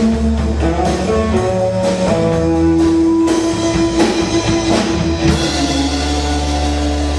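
Live rock band playing: guitar over bass and drums, with held notes and regular drum and cymbal strokes.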